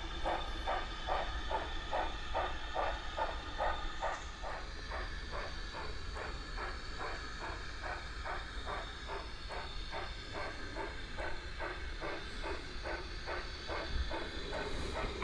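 O gauge model train running along the layout's track, with a regular beat about three times a second over a steady hum.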